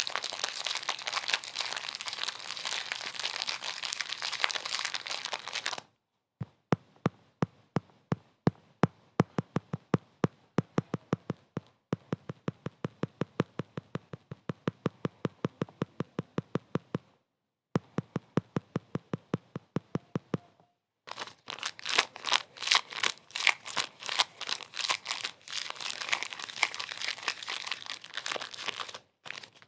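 Crinkling, crackling noise for the first six seconds. Then a run of sharp, evenly spaced clicks, about four a second, broken by two brief silences. Denser crackly clicking follows in the last third.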